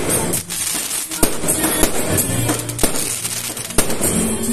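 Aerial fireworks bursting in a rapid string of sharp bangs, with music playing underneath.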